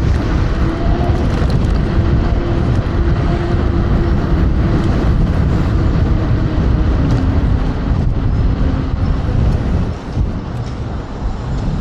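Wind rushing and buffeting over a rider's microphone during an electric scooter ride at speed, mixed with road noise. A faint steady whine runs underneath and drops slightly in pitch about seven seconds in.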